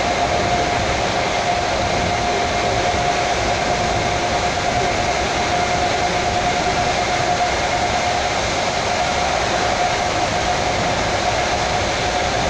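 Electric commuter train running steadily at speed, heard from inside the carriage: an even rushing rumble of wheels and running gear with a constant whine through it.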